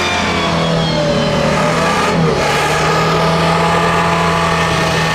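A vehicle engine running at steady revs under load, a constant drone.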